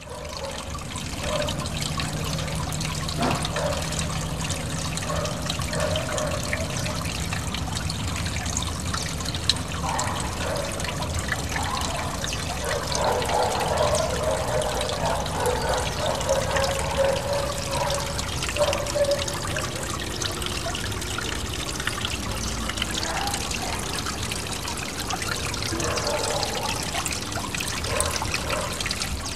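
Small garden waterfall trickling and splashing steadily into a pond.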